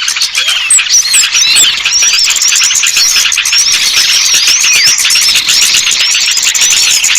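Dense, loud chorus of many small birds chirping and twittering at once, quick high notes overlapping without pause: a bird-lure recording meant to call small birds down.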